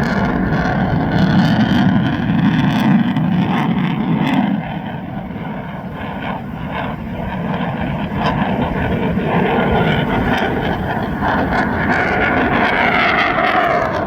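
US Marine Corps F-35B's single F135 jet engine running loud during a demo flight. The noise eases for a couple of seconds about a third of the way in, builds back up, and a rising whine comes in near the end.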